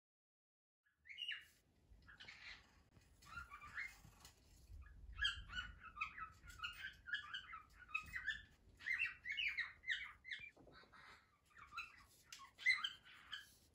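Faint bird chirping and twittering: quick, irregular high chirps that keep on, starting about a second in.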